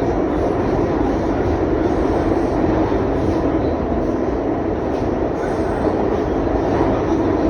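R62A subway train running through a tunnel, heard from aboard: a loud, steady rumble of wheels and motors on the rails.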